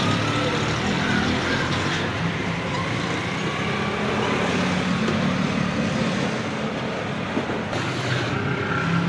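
Steady road-traffic noise, a continuous mix of vehicle engines.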